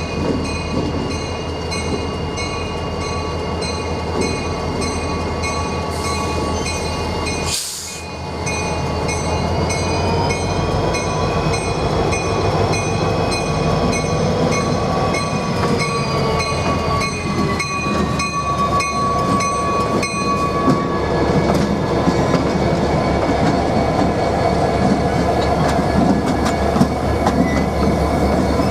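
A Norfolk Southern train rolling by on the rails, wheels rumbling, with steady high-pitched wheel squeal that bends in pitch midway and dies away about twenty seconds in.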